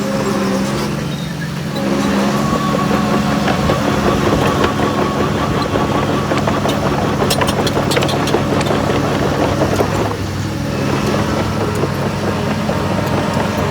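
Heavy earthmoving machine's diesel engine running under load with a steady hum. It eases off briefly about a second and a half in and again about ten seconds in. In between a higher whine comes in, with scattered sharp clanks.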